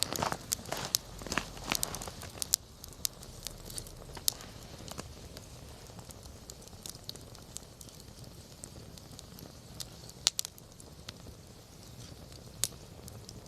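Wood campfire crackling: a busy run of crackles and snaps for the first two seconds or so, then a low hiss with scattered sharp pops from the burning wood, the loudest about ten seconds in.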